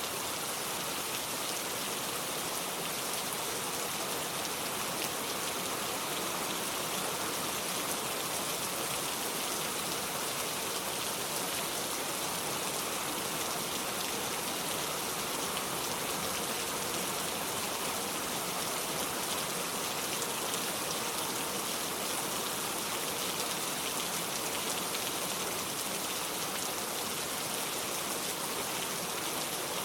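Steady, even rain with fine patter, strongest in the high hiss, with no music or other events in it.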